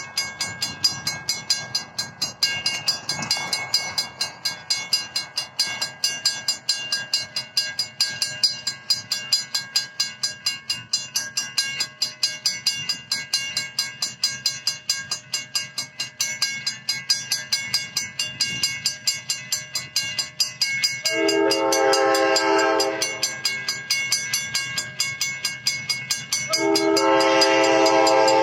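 Railroad crossing bell ringing in fast, even strokes throughout. Late on, a diesel locomotive's air horn sounds a chord twice: a blast of about two seconds, then a longer one near the end.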